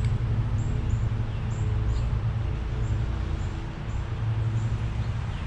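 Outdoor ambience: a steady low rumble, with a small bird chirping over and over, a short high chirp about every half second.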